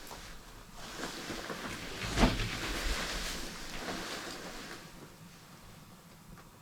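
Gust of wind rushing over the microphone, swelling and dying away over a few seconds, with one sharp knock about two seconds in.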